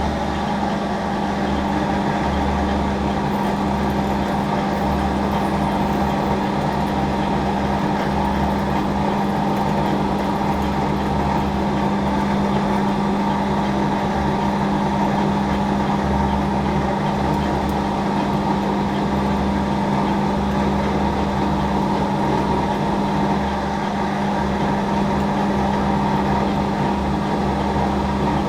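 Hafco Metal Master AL960B metal lathe running steadily while a 20 mm drill bores into stainless steel bar, a constant hum with a strong low tone.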